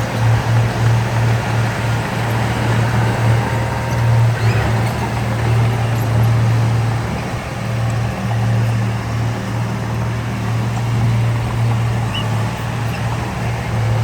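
Heavy diesel engine of earthmoving machinery running steadily, a continuous low drone with machine noise over it.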